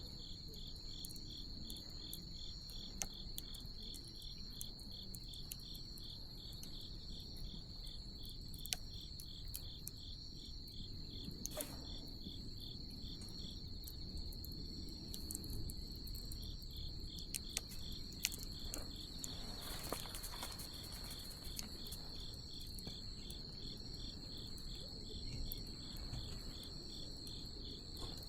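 Night insects calling steadily, one a continuous high trill and another a rapid, regularly pulsed chirp just below it, over the low rush of a wood bonfire with scattered crackles and pops.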